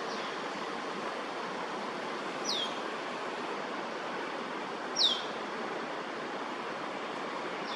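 Steady background rush of outdoor ambience, with two short, high bird chirps that fall in pitch, about two and a half seconds apart.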